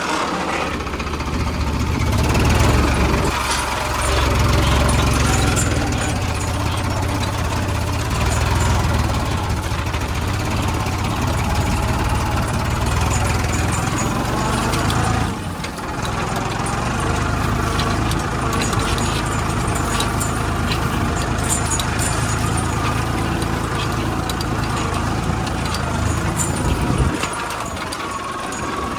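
Farmtrac 60 PowerMaxx tractor's diesel engine running steadily under load while pulling a 16-inch plough in second gear. There is a brief break about halfway through, and the deep rumble drops off near the end.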